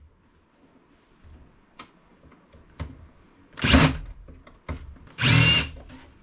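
Power drill run in two short bursts with a whine, about three and a half and five seconds in, backing screws out of a PC case to separate its steel plate. Light clicks and clinks of metal parts between the bursts.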